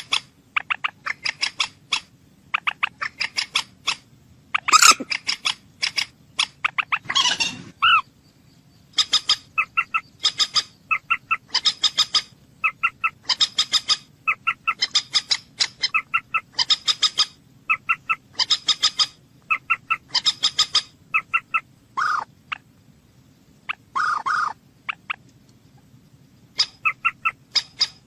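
Common moorhen calling: quick bursts of short, sharp clucking notes, about a second apart, broken a few times by a longer, harsher call.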